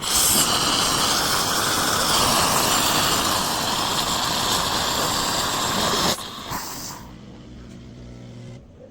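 Bosch 500 Series fully automatic espresso machine frothing milk for a cappuccino: a loud steady hiss of steam through the milk system that cuts off about six seconds in, followed by a quieter machine hum near the end.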